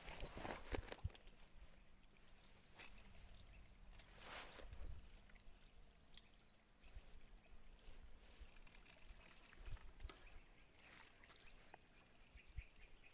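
Outdoor rural ambience dominated by a steady high-pitched insect drone, with faint short chirps repeating every second or so. A few clicks and knocks come in the first second.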